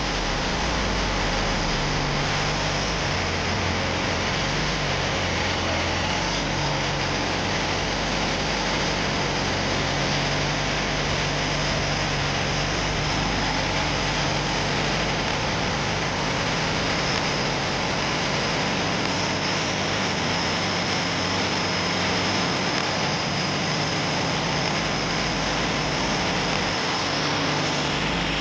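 Long-tail boat engine running steadily under way, mixed with a dense rush of wind and water noise.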